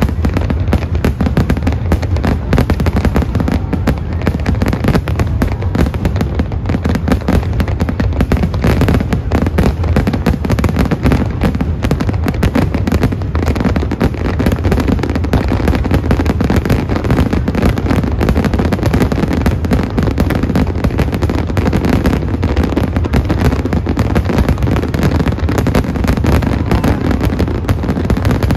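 Aerial fireworks shells bursting in rapid, overlapping succession: an unbroken barrage of bangs and crackle with no pauses.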